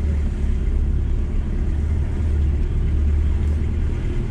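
VW T4 campervan driving slowly, its engine and road noise making a steady low drone.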